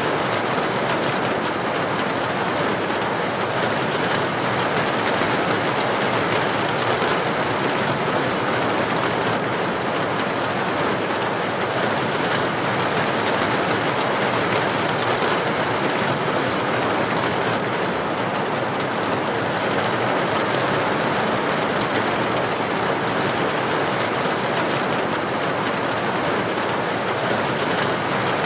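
Heavy rain pouring steadily onto a street, an even rushing hiss that holds at the same level throughout, with no thunderclap.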